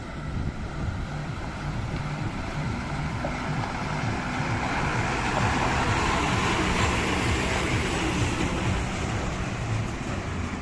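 Diesel engine of heavy machinery running steadily with a low, pulsing rumble, with a rushing noise that swells louder about halfway through and then eases off.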